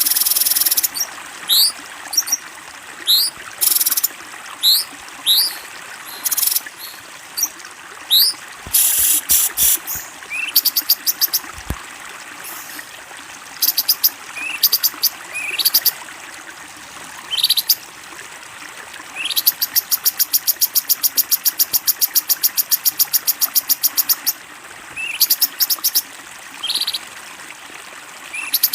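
Recorded songbird calls: repeated short rising chirps and several fast, buzzy rattling trills, one of them running for about five seconds. Underneath is a steady trickle of flowing water.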